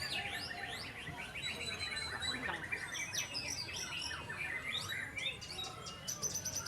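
Several white-rumped shamas (murai batu) singing at once: dense, overlapping whistles, fast trills and rapid repeated notes with no pause, over a low steady background hum.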